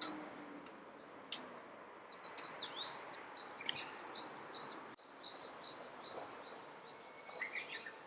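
A songbird singing a long run of short, high, repeated notes, about three a second, over a steady background hiss.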